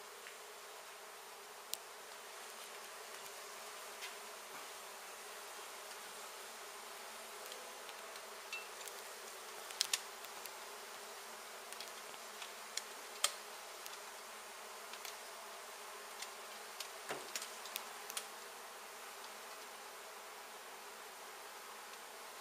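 A mass of honey bees humming steadily around an opened hive, with scattered sharp clicks and taps from handling.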